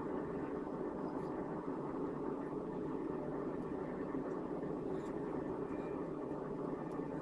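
Steady, even rushing noise with no change in level, with a few faint ticks.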